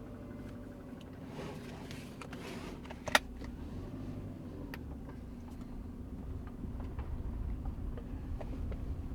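Steady low hum of a car running, with one sharp click about three seconds in.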